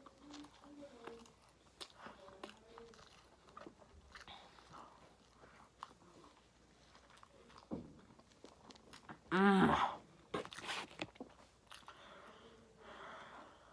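A person chewing a mouthful of burger close to the microphone, with soft wet mouth clicks and smacks. About nine and a half seconds in comes one short, louder vocal sound.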